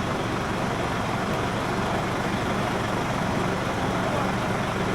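A vehicle engine running steadily, with faint voices in the background.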